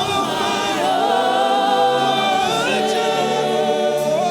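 Gospel church choir singing long held notes in a worship song.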